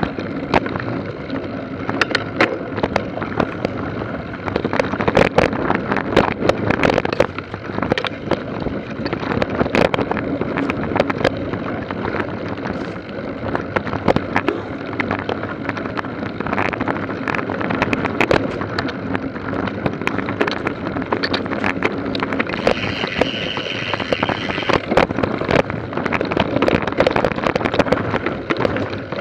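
Mountain bike ridden over rough trail: a constant clatter of rattles and knocks from the bike, with wind noise on the microphone.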